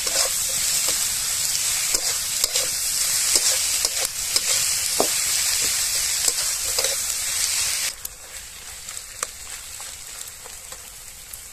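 Chopped onion and garlic sizzling in hot mustard oil in a kadhai as they brown, with a spatula stirring and clicking against the pan now and then. The sizzle drops noticeably about eight seconds in.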